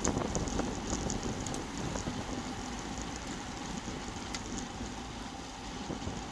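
Wind rushing over a road bike's front-mounted action-camera microphone while riding, a steady rumbling noise with a few faint clicks.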